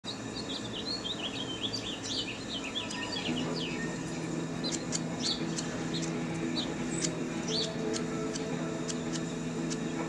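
Small birds chirping: a quick run of short high chirps in the first three seconds, then scattered single chirps. About three seconds in, steady low sustained tones come in underneath and run on.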